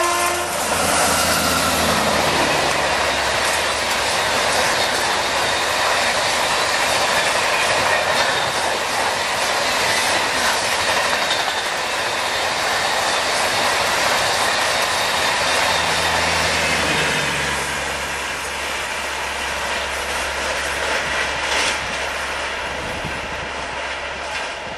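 Rajdhani Express passenger train passing at speed close by, a continuous loud rush of wheels on rail with clickety-clack over the rail joints. A falling whine sounds in the first few seconds, and the noise eases a little in the last several seconds as the train draws away.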